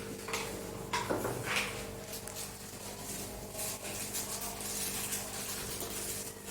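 Baking soda and citric acid fizzing in water under oil, heard as a faint crackling hiss over a steady hum.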